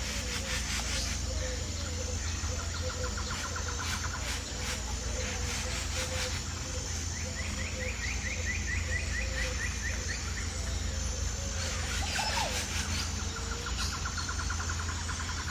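Outdoor nature ambience: rapid trilling chirps, each run lasting a few seconds and several in turn, over a steady low rumble, with a few sharp clicks.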